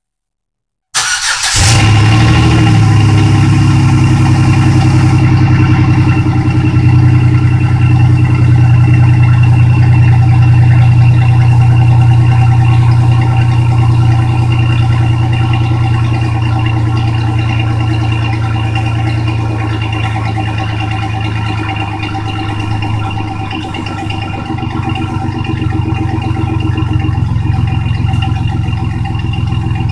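2008 Chevy Silverado's 4.3-litre Vortec V6 starting up cold after sitting four days, heard through its stock exhaust. It catches suddenly about a second in and settles into a loud, steady idle.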